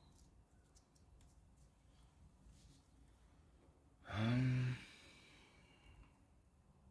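A man's single voiced sigh about four seconds in, under a second long and dropping slightly in pitch with a breathy tail: a sigh of dismay.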